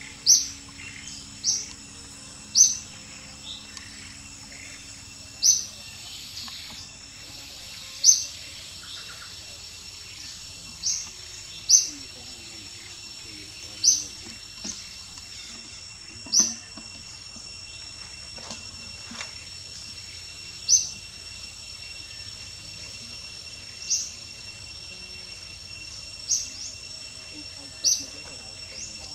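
A bird repeating a short, sharp, high chirp every two to three seconds, over a steady high-pitched insect drone.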